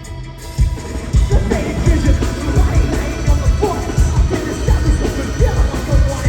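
Heavy metal band playing live and loud. The full band, with pounding drums and bass, kicks in about half a second in after a quieter passage.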